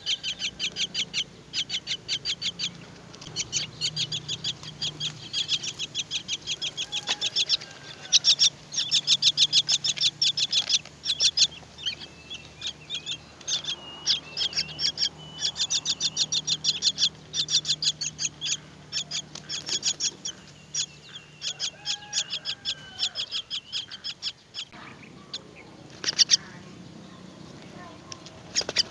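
Myna nestlings begging for food: rapid, high-pitched chirping, about seven or eight calls a second in long runs, with a few lower calls between. The chirping stops about 24 seconds in.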